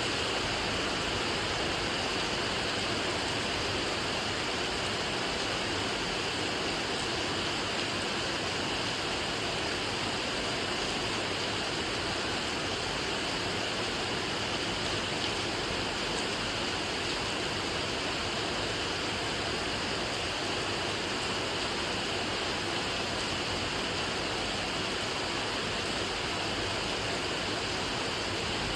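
Steady rain falling, an even hiss with no pauses or distinct drops standing out.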